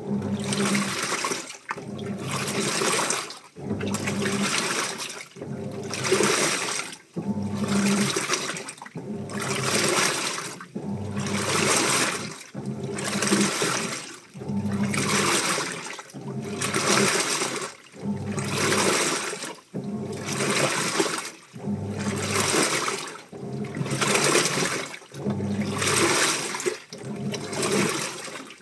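Washing machine in its wash cycle, water sloshing in regular surges about every two seconds as the drum or agitator swings back and forth, with a low motor hum under each surge.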